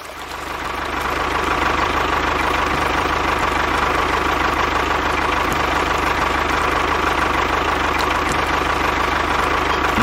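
Small model diesel engine running steadily with a fast, even knock. It fades up over the first second or so, then holds level.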